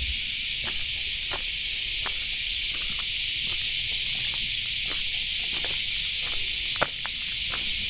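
Steady, high-pitched insect chorus with a dense, unbroken sound. Under it are faint, irregular footsteps on a path, and there is one sharper click near the end.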